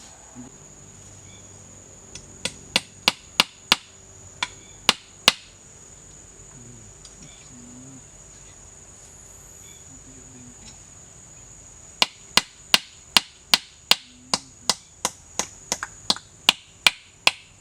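Hammer driving nails into the wooden frame of a forest shelter: a run of sharp strikes about three a second, a pause of several seconds, then a longer, faster run near the end. A steady high insect drone runs underneath.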